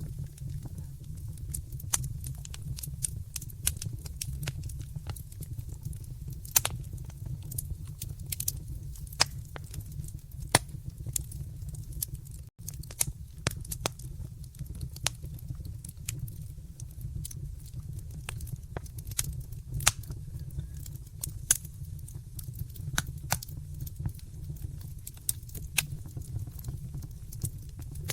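Wood fire in a fireplace crackling: irregular sharp pops and snaps over a steady low rumble of the flames, with a brief gap about twelve seconds in.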